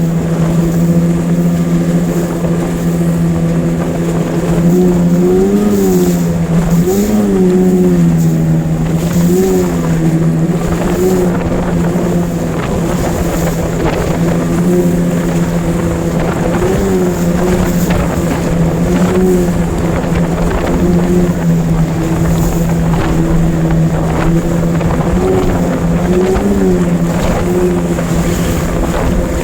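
9.9 hp outboard motor running steadily under load, pushing a small boat through a river rapid, its pitch briefly rising and falling back several times.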